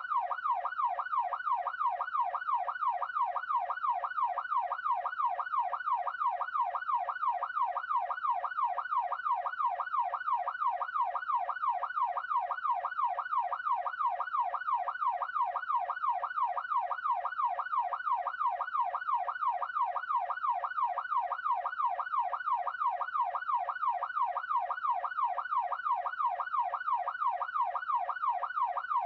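Electronic yelp siren, its pitch sweeping quickly and evenly up and down about three times a second without a break.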